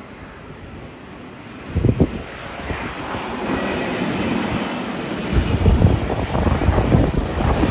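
Jet airliner's engines growing louder as it passes close by: a deep rumble that builds steadily from about two seconds in and is loudest near the end.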